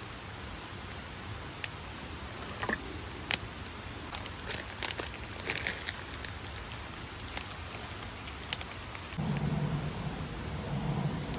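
Wood fire crackling: scattered sharp pops over a steady hiss. A low hum comes in about nine seconds in.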